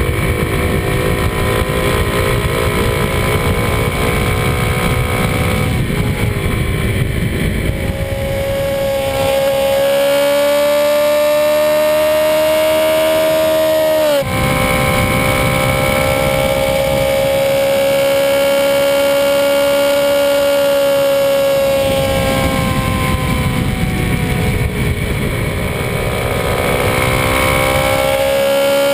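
Kawasaki D-Tracker 250 single-cylinder engine running on the road, its note rising and falling gently with the throttle, with a brief sharp dip about halfway through. Wind rumbles on the handlebar-mounted microphone for stretches at the start and again near the end.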